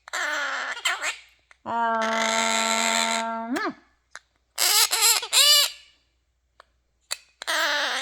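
Quaker parrot vocalizing in short calls, with one long steady held note of about two seconds that sweeps upward at its end, then a pair of quick arching calls and a last short call.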